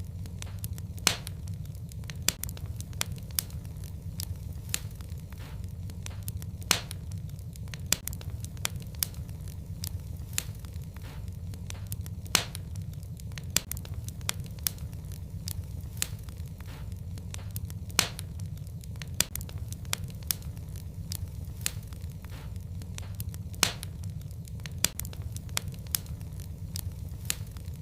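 Wood fire burning in a fireplace: a steady low rumble of flames under frequent, irregular crackles, with a handful of louder sharp pops spread through.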